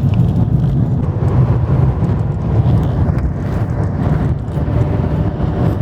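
Steady low rumble of tyre and engine noise inside a moving car's cabin, with some wind noise.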